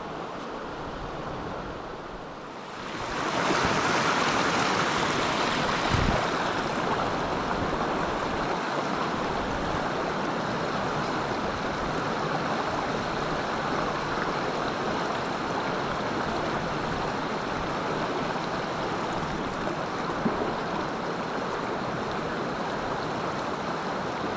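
Mountain stream rushing steadily, quieter for the first few seconds and then louder from about three seconds in, with one soft knock near the middle.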